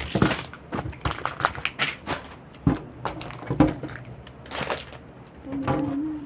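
Clicks, knocks and crackling of hard plastic items and packaging being handled during fridge cleaning. A short steady low tone sounds about five and a half seconds in.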